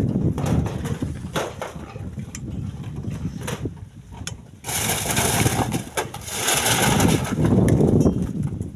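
Split stones being loaded into a truck: repeated sharp knocks of rock on rock and metal, with two longer bursts of clattering stone about halfway through and near the end, over a low engine-like rumble.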